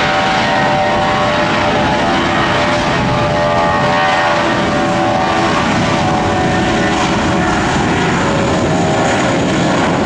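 Jet airliner's engines running close by: a loud, steady rumble with several whining tones that slowly drift lower.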